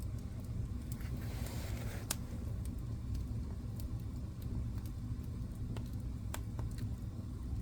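Wood fire burning in a fireplace: a steady low rumble of flames with scattered sharp crackles and pops, and a brief hiss about a second in.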